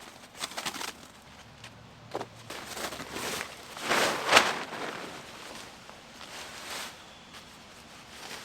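Rustling and crunching of someone moving about in dry autumn leaves, in short scattered bursts, loudest about four seconds in.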